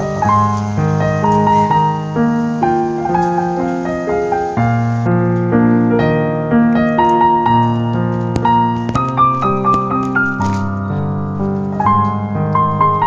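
Background piano music, a gentle melody of held notes over a steady bass line.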